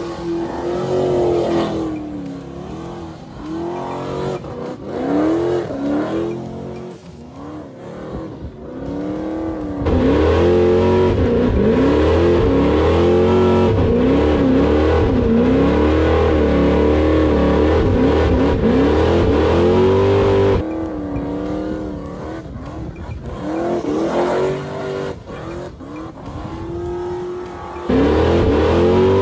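Chevrolet Chevelle engine revving hard over and over during a burnout, its pitch repeatedly rising and falling as the car spins donuts. The sound grows louder for a stretch in the middle and again near the end.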